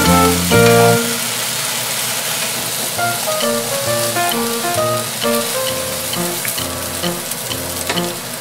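Potato strips and ham sizzling in oil in a frying pan as they are stirred, with background music over it; the music is loudest in the first second.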